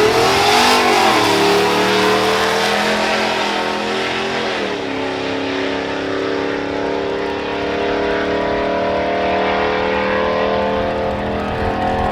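A vehicle engine accelerating under load, its pitch climbing and then dropping at two upshifts, about a second in and near five seconds, before it holds steady and slowly rises in the next gear.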